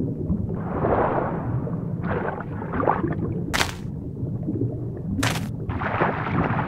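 Designed underwater sound effects: a steady low rumble of underwater ambience with swelling washes of bubbling and swishing, and two short sharp hits about three and a half and five seconds in.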